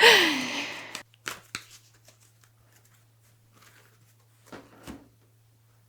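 A short breathy vocal sound falling in pitch at the very start, then soft scattered clicks and rustles of oracle cards being handled as a card is drawn from the deck. A faint steady hum runs underneath.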